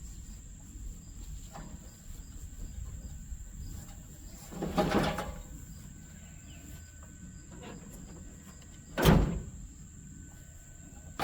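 A vehicle driving over rough ground: a low steady rumble, broken by two loud jolts, about five seconds in and again about nine seconds in.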